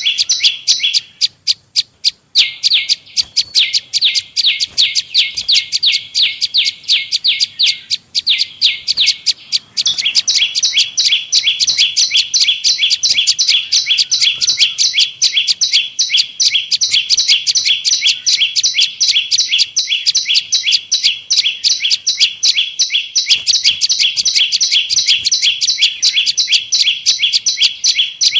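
Prenjak lumut (a prinia) call played as a bird-trapping lure: a fast, unbroken series of sharp, high chirping notes, briefly pausing about two seconds in.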